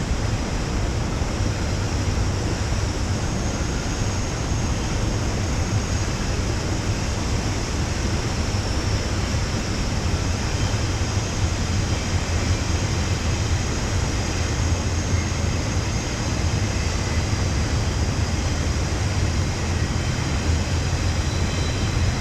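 Steady rushing of whitewater on the Youghiogheny River's Swimmers Rapid: a constant wash of water noise with a low rumble underneath.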